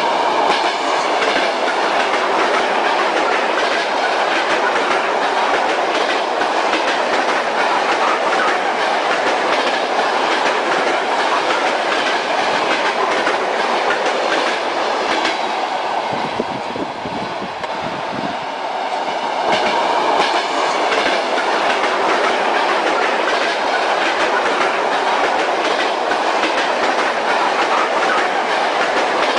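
Railway carriage running on the rails: steady rolling noise with the clickety-clack of wheels knocking over rail joints. For a few seconds past the middle the sound turns softer and deeper, then picks up again.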